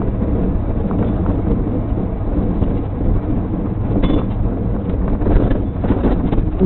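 Steady low rumble with wind buffeting the microphone and scattered faint knocks, the original sound of an amateur recording.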